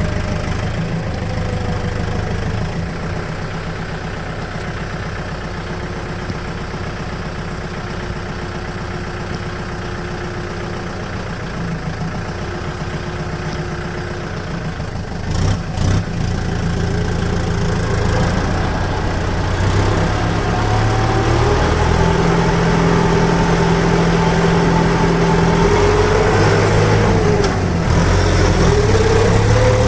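Scania P360 truck's diesel engine running steadily, then pulling harder and louder from just past halfway, with a whine that rises and falls. A couple of short knocks come about halfway through.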